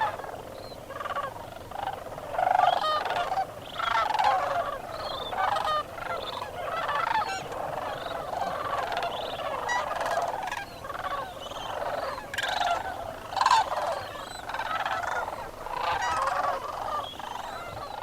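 A large flock of sandhill cranes calling together at the roost as it wakes and flies out: many overlapping calls, one after another without pause.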